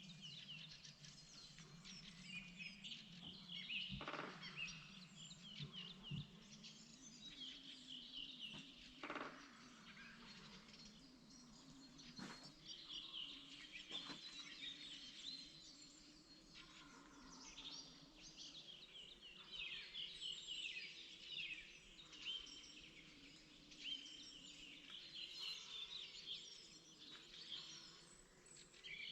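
Spring birdsong, faint: several small birds chirping and twittering in quick overlapping phrases, with a few soft clicks and a low steady background hum.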